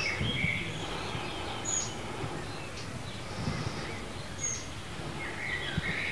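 Wild birds chirping and calling, short high chirps every second or so, over a steady low outdoor background noise.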